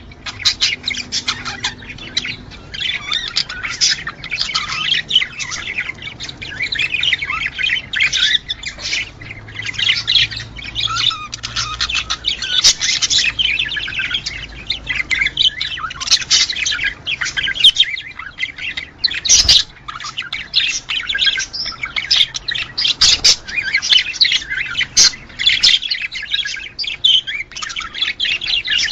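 Budgerigars chattering, with a dense, continuous mix of chirps, warbles and squawks from several birds. Two sharp clicks come about two-thirds of the way through.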